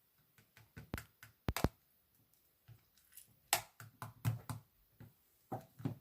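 Irregular light taps and clicks of hands handling small objects, about a dozen in quick, uneven succession, some with a soft knock.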